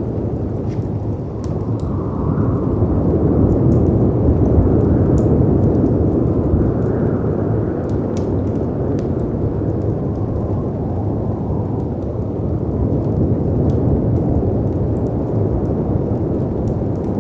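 Winter storm ambience: a loud, deep rushing rumble of wind and surf that swells for a few seconds and then eases, with a faint howl of wind rising and falling over it. Small scattered pops and crackles of a wood fire sound throughout.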